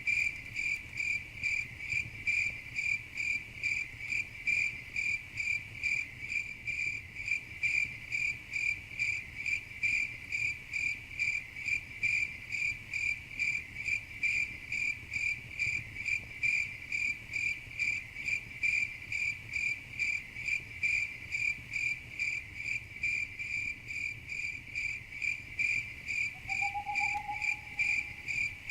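Crickets chirping steadily in an even rhythm, about two high chirps a second. A faint short rising call sounds near the end.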